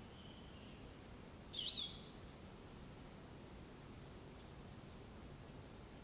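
Forest birds over a faint steady background hiss: one loud, wavering call about a second and a half in, then from about three seconds a high, thin song of short falling notes repeated quickly, ending about half a second before the end.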